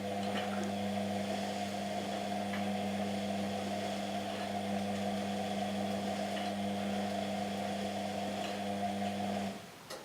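Washing machine motor running with a steady hum, stopping abruptly near the end.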